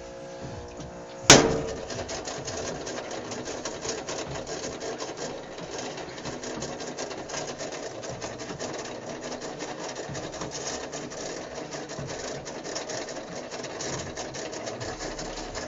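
GE WLSR3000GWW top-load washer whose timer is failing: a steady buzz, then one loud whack about a second in, after which the machine runs again with a continuous rasping, rattling mechanical noise. A whack is what gets this washer going again when the bad timer stalls it.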